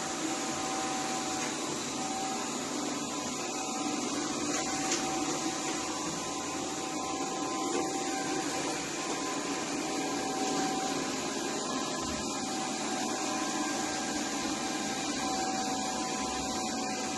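ABIR X8 robot vacuum cleaner running with a steady motor whir and a faint, even whine.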